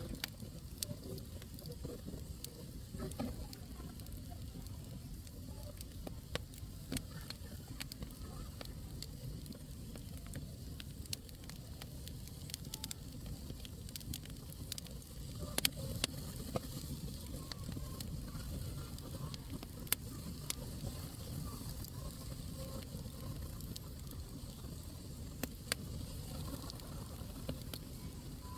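Wood fire burning in a fireplace: a steady low rumble with scattered sharp crackles and pops, a few louder pops a little past halfway.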